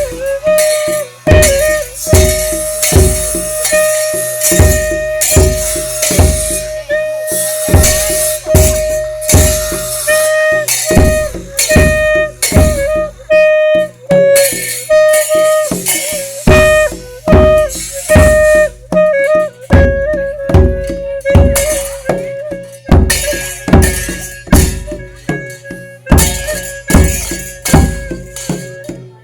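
Isan folk music: drums beating a steady rhythm of about two strokes a second under a held, slightly bending reedy tone from a sanai buffalo-horn, with jingling percussion on top.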